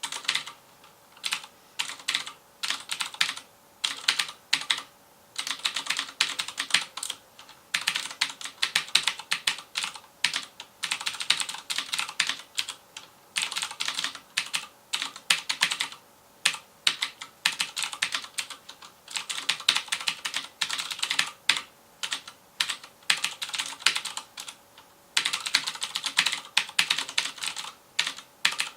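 Typing on a FILCO Majestouch Convertible 2 mechanical keyboard with Cherry MX Blue switches: rapid runs of sharp, clicky keystrokes in bursts, broken by short pauses.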